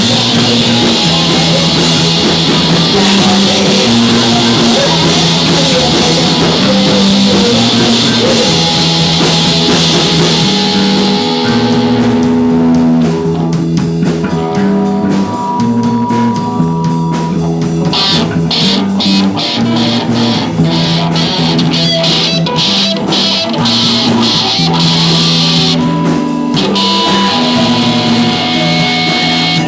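Live rock band playing: guitars, bass and drum kit. About twelve seconds in, the full dense sound drops back to a sparser passage of separate guitar notes and drum hits, and it fills out again near the end.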